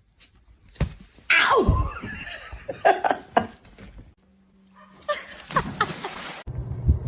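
A dog's whining, howl-like calls: one loud falling cry about a second and a half in, then shorter calls.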